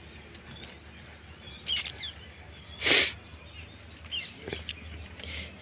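Birds chirping faintly and sporadically over a low steady hum, with one brief rush of noise about three seconds in.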